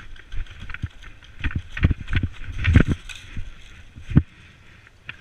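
Irregular thumps and knocks, heaviest around the middle, with a sharp one about four seconds in.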